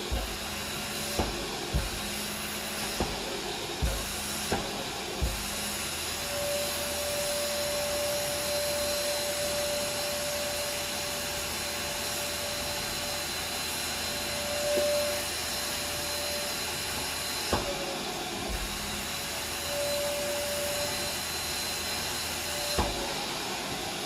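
Vacuum cleaner running steadily with a motor whine, and sharp clicks every second or so over the first few seconds and again near the end.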